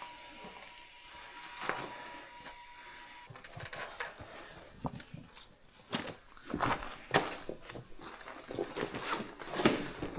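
Footsteps and scuffs on slippery mud and rock: irregular knocks and scrapes that get busier about three and a half seconds in.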